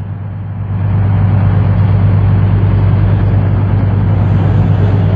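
Boat engine running under way, a steady low hum that grows louder about a second in and then holds even.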